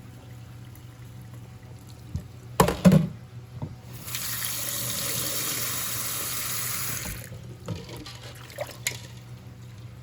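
A couple of loud clanks of cookware at a kitchen sink, then water runs steadily into the sink for about three seconds and stops, followed by a few light knocks.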